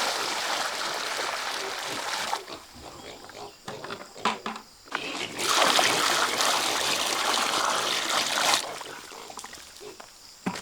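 Pigs grunting and squealing around a trough, with bouts of water or slop splashing and pouring that last a few seconds each, twice.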